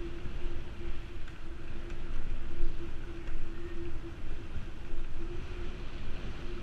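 Wind buffeting the microphone of a moving bicycle rider, a rumbling rush that rises and falls, with a steady hum underneath.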